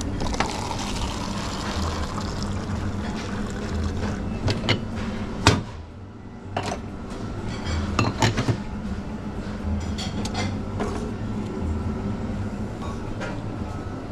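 Coffee machine running with a steady hum while liquid pours into a cup; about five seconds in a sharp knock ends the pour, and cups and dishes clink and knock after it.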